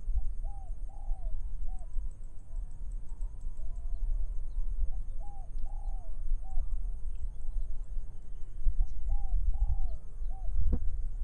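A dove cooing in short phrases of about three soft arched coos, each phrase repeating every three to four seconds, over a low rumble of wind and a faint steady high whine, with one sharp click near the end.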